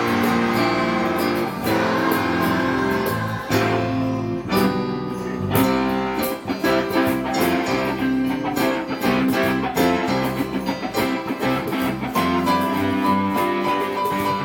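Instrumental passage of a church medley: guitars strumming a steady rhythm, with no singing.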